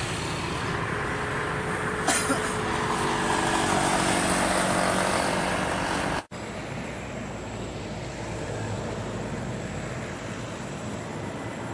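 Bombardier CRJ1000 jet engines running with a loud, steady rush and a few faint steady tones. The sound cuts off abruptly about six seconds in, giving way to a quieter steady rush.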